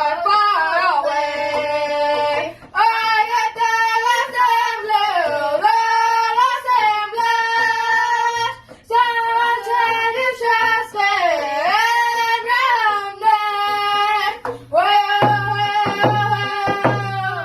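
A young singer's high-pitched powwow-style song with a hand drum beating steadily underneath. The drum beats grow louder near the end as the song closes.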